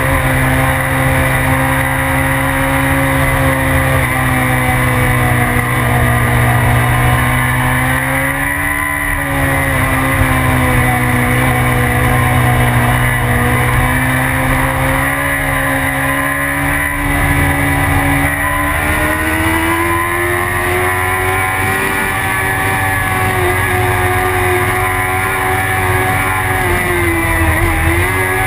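BMW sportbike engine running at high revs under load, its pitch sagging briefly about a third of the way in, rising a little past halfway and dipping again near the end, with steady wind rush over the microphone.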